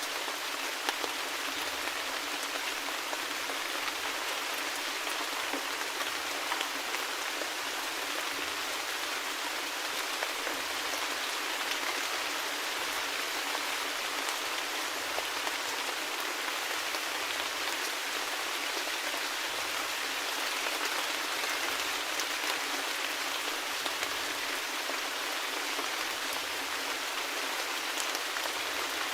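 Steady rain falling: an even hiss sprinkled with many small drop ticks, with no let-up.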